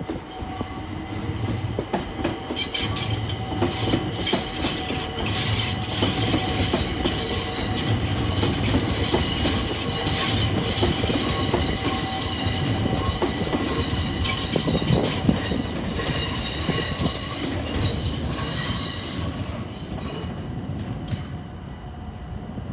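London Overground Class 378 electric multiple unit passing close by, its wheels clicking over the rail joints under a high steady squeal. It grows louder over the first few seconds, holds, then fades as the train draws away.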